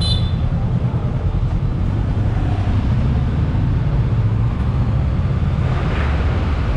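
A motorbike riding along the road, heard as a steady, loud low rumble.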